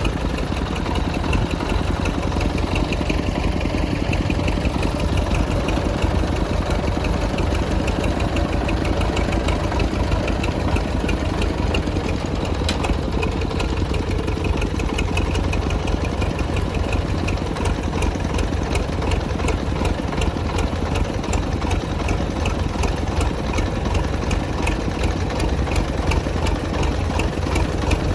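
Engine of an old 1980s tractor running steadily at idle, with a rapid, even firing beat and a strong low rumble.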